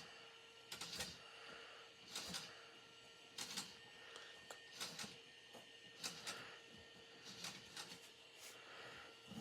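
Lego model diesel engine running, its plastic parts clattering in a regular cycle of bursts roughly every 1.2 to 1.3 seconds over a faint steady motor hum.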